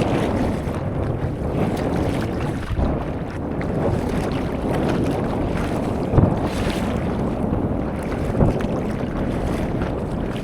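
Wind buffeting the microphone over the sea, with water splashing and sloshing throughout. A few sharper thumps stand out, about six and eight seconds in.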